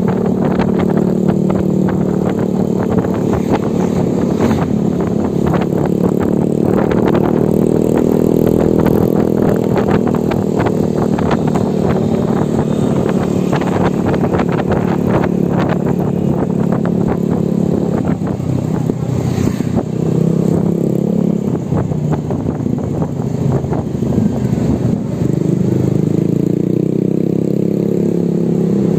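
Motorbike running steadily on the move, a steady hum of several pitched tones that dips a little about eighteen seconds in and rises again near the end, with frequent short knocks and rattles over it.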